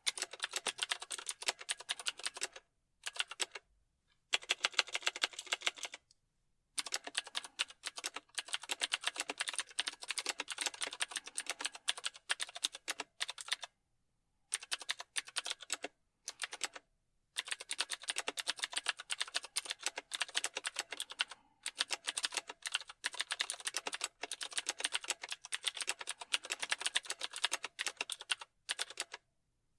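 Typing on a computer keyboard: fast key clicks in runs of a few seconds, broken by short pauses.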